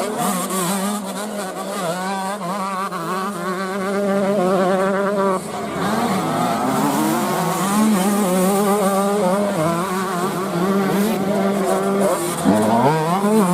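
Several 125 cc motocross bikes racing, their engines revving up and down over each other, with one bike revving up sharply near the end.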